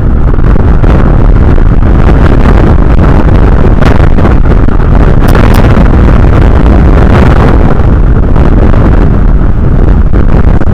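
Strong wind buffeting the outdoor nest camera's microphone: a loud, continuous rumbling roar, heaviest in the low end.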